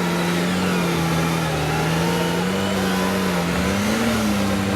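Engine of a prepared off-road competition vehicle running at steady mid revs, its pitch sagging slightly and coming back up a couple of times.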